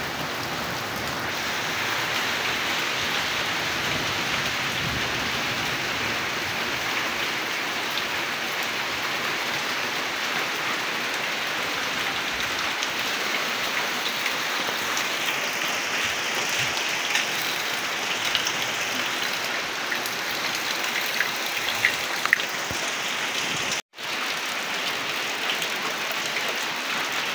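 Steady rain falling on wet ground and puddles, an even hiss with a few sharper drip splashes. The sound drops out for an instant about three-quarters of the way through.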